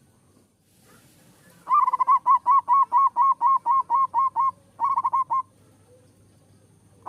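Zebra dove (perkutut) singing: a fast run of about a dozen rhythmic cooing notes, about five a second, then a short quicker group of four, and a new run starting at the very end.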